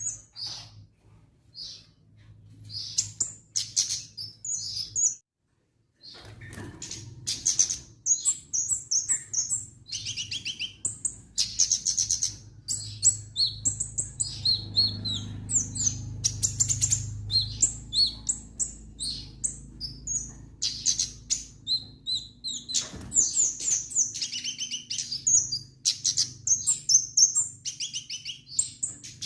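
Kemade songbird singing a long, busy run of rapid high chirps and trills, breaking off completely for about a second some five seconds in before resuming.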